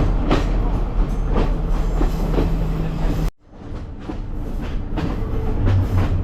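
Passenger train running along the rails, heard from inside a carriage: a steady rumble and hum, with the wheels clacking over rail joints about once a second. About halfway through, the sound cuts out abruptly and returns quieter, with the same clacking.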